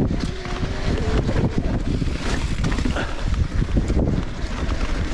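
Wind buffeting the microphone over the rumble and rattle of a Specialized Levo electric mountain bike riding over rough trail, with many small knocks throughout.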